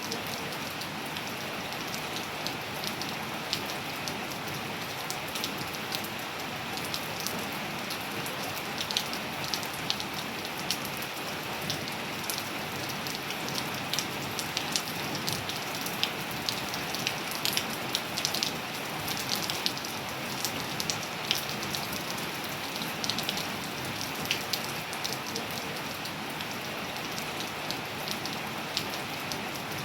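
Steady rain falling: an even hiss with many sharp, irregular drop ticks over it.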